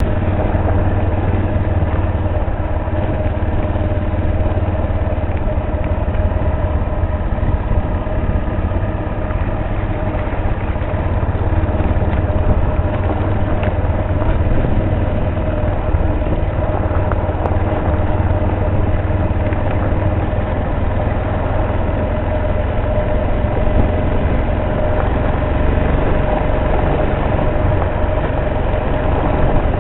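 Motorcycle engine running steadily under way, a dense low rumble with a constant hum over it and no big changes in speed.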